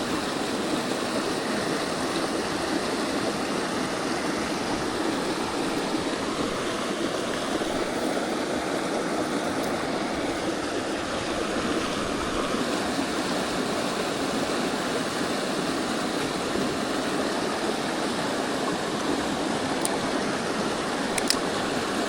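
Mountain stream water rushing, a steady even wash of noise, with a faint click or two near the end.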